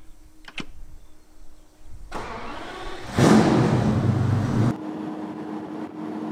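Two sharp clicks of toggle switches on the start panel. Then the BMW E36's M73B54 5.4-litre twin-turbo V12 starts, loudest for about a second and a half, and drops to a steady idle.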